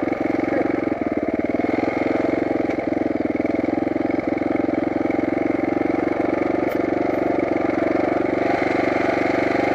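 Dirt bike engine running steadily at an even, unchanging speed.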